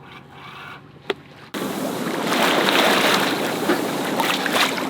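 Wind buffeting the microphone and water rushing past a sailboat under way, cutting in abruptly about a second and a half in. Before that it is quiet apart from one sharp click.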